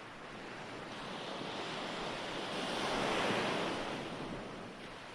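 Ocean waves washing in: one wave swells, peaks about three seconds in and draws back.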